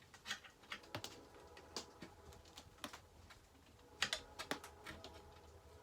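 Scattered light metallic clicks and taps of small bolts and hand tools being handled on a chainsaw under reassembly, the loudest pair about four seconds in.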